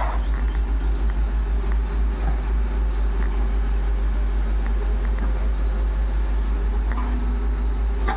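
Heavy diesel engine running steadily with a regular low pulse, its sound dominated by deep bass.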